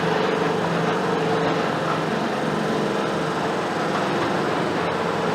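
Mercedes-Benz OF-1721 BlueTec 5 bus's front-mounted diesel engine running steadily, with a low, even engine note.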